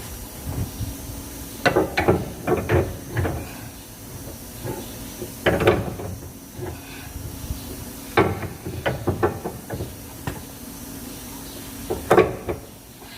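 Metal clunks and rattles from a car's underbody parts being worked or shaken by hand, coming in four short irregular clusters over a steady low hum. The knocking comes from underneath the car, where a loose pin is suspected of rattling.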